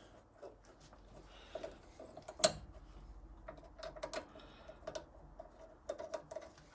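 Faint, irregular small metallic clicks and ticks as the brake line bracket and its 10 mm bolt are fitted back onto the front steering knuckle by hand, with one sharper click about two and a half seconds in.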